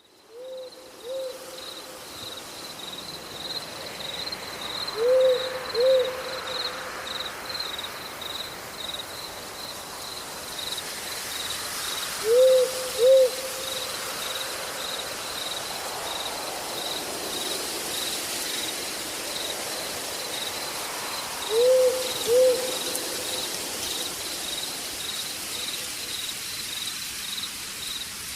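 An owl hooting in pairs of short notes, four double hoots a few seconds apart, over the steady fast chirping of crickets.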